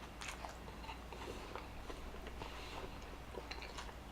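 Faint close-miked eating sounds: scattered short, wet clicks and smacks of chewing and handling a Whopper with sauce.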